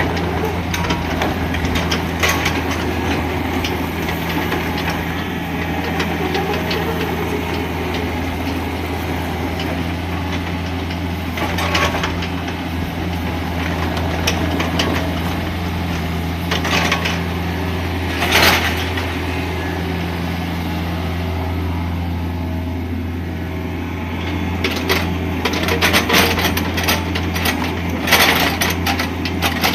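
Kubota K-035 mini excavator's diesel engine running steadily, with a few short knocks and clatters breaking in, most of them near the end.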